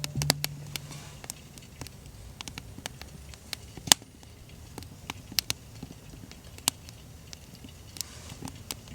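Wood fire crackling: sparse, irregular sharp pops and ticks, with one louder pop about four seconds in.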